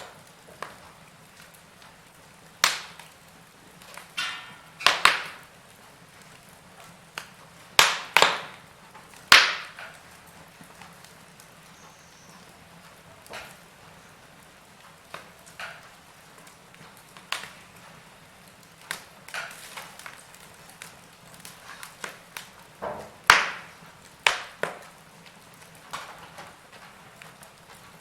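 Wood fire crackling in a fireplace: irregular sharp pops and cracks at uneven gaps, a few of them loud snaps, over a faint steady background.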